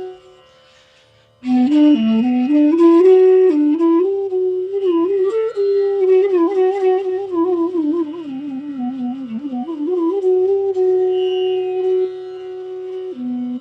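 Bansuri, the North Indian bamboo flute, playing a slow ornamented melody. A held note ends right at the start and there is a short breath pause. The flute comes back in about a second and a half later with rising phrases and wavering slides, then holds one long steady note before dropping near the end, over a low steady drone tone.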